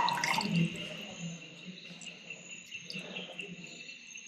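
Insects chirping steadily, a continuous high-pitched trill, with some brief handling or knocking noises in the first second.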